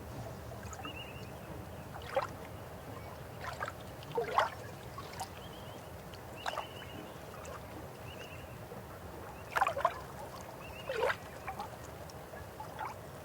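River water flowing steadily, with irregular louder gurgles and splashes every second or two. Short high bird chirps sound now and then.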